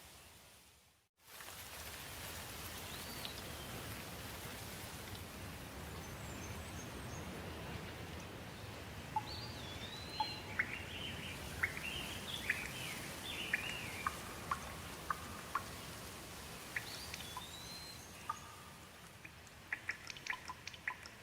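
Steady rain falling, cutting out briefly about a second in, with birds chirping and calling over it through the middle; near the end, single drops tap sharply.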